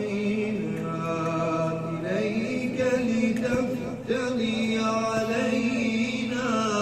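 A single male voice chanting Quranic recitation in melodic tajweed style, drawing out long, wavering held notes with only brief pauses for breath.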